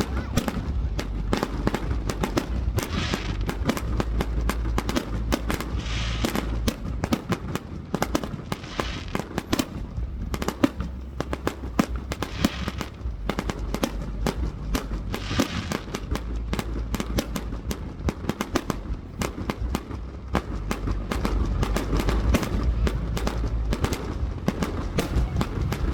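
Fireworks display in a heavy barrage: rapid, near-continuous bangs and crackling, with a low rumble underneath.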